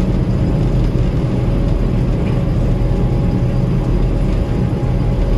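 Gleaner M2 combine running steadily while harvesting corn: a loud, even mechanical drone with a low engine hum.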